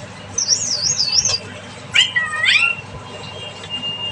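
Pet parrot calling: a high warbling trill, then about two seconds in a burst of rising whistled calls, followed by a thin steady whistle.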